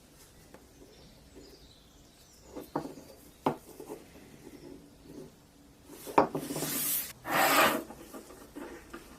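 A few light knocks, then two long rasping strokes of an abrasive worked by hand across metal, about six and seven seconds in: rust being stripped from a pressed-steel Tonka toy truck.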